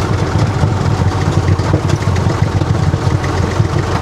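Farm tractor engine running steadily under load while plowing snow aside.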